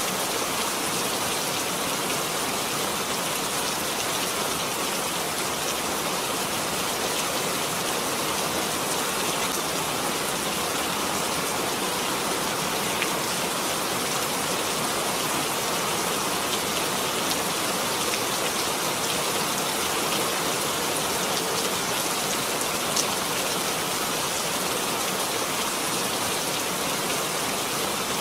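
Steady, heavy rain falling, an even hiss with a few sharper drop ticks here and there.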